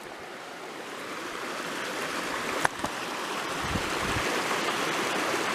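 Mountain headwater stream rushing over rocks, a steady noise that grows slowly louder, with one sharp click about halfway through.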